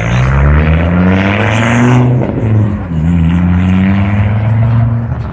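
Car engine revving up twice, its pitch rising steadily for about two seconds, dropping off, then climbing again until it falls away near the end.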